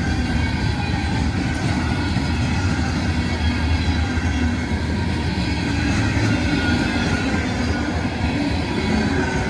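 CSX freight train rolling by, a steady, loud rumble of wheels on the rails.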